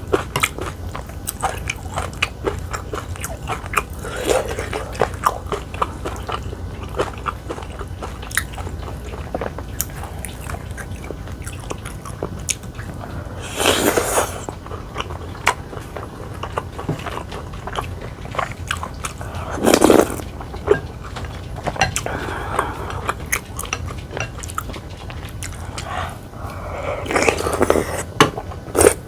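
Close-miked eating: a person chewing and biting food, with many small wet mouth clicks and a few louder, brief noisy sounds about 14 and 20 seconds in and near the end.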